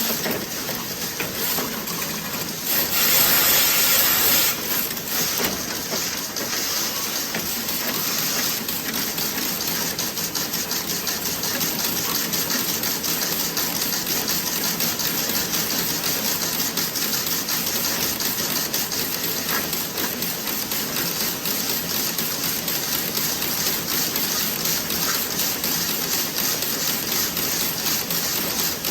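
Toe-sock knitting machine running with a fast, even clatter, and a loud hiss for about two seconds near the start.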